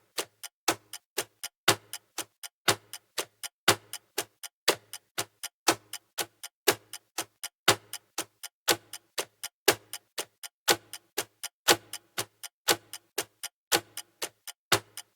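Clock-ticking sound of a countdown timer: steady, sharp ticks about four a second, with a louder tick once a second.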